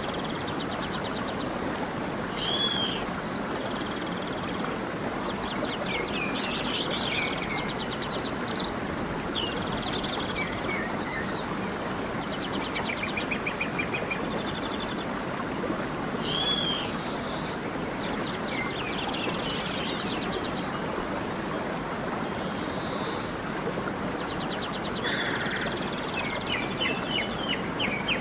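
A stream running steadily, with several birds calling and singing over it: repeated arched whistled notes, buzzy trills and quick chipping series.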